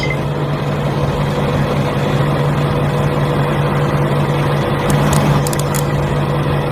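A small motor running steadily with an unchanging low hum, with a few light clicks about five seconds in.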